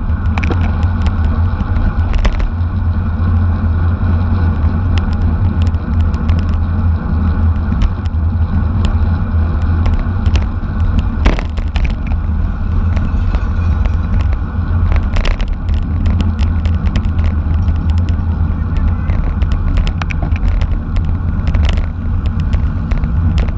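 Steady wind rumble on the microphone with road and tyre noise while riding in a bicycle race. Scattered short clicks and rattles run through it, and there is a sharper knock about eleven seconds in.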